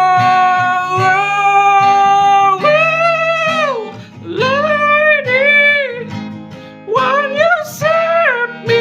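A singer holding long, high sung notes over a strummed acoustic guitar. Several of the notes slide down at their ends, and the first is held for nearly three seconds.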